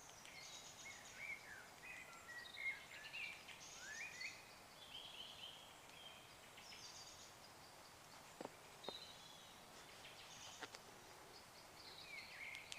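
Woodland birdsong: several small birds singing and calling with high chirps, trills and whistles, faint against a quiet background. A few faint clicks come in around the middle and a little later.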